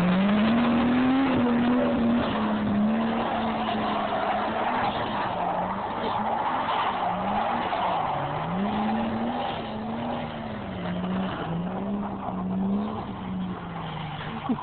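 Toyota Supra's turbocharged 7M-GTE inline-six revving up and down over and over as the car drifts on snow. Loudest at first, it grows fainter as the car moves away.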